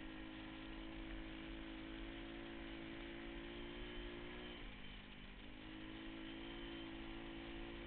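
Pit bike engine running at steady revs. Its pitch drops briefly about halfway through, then climbs back to the same note.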